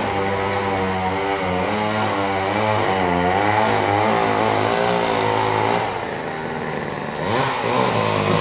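A small gasoline engine running loudly, its pitch wavering up and down as it revs, over a steadier low hum. It starts abruptly and cuts off just as suddenly.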